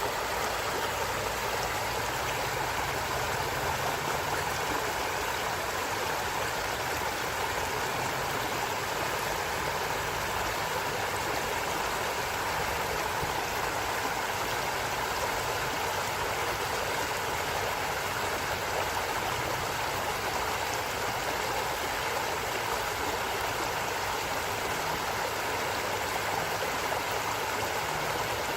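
Water of a stream running, a steady, unbroken rush with no change throughout.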